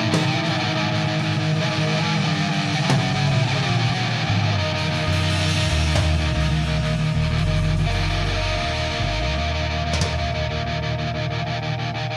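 Distorted electric-guitar rock music with bass and drums, a bass line moving under sustained guitar chords, and cymbal crashes a few seconds in and near the end.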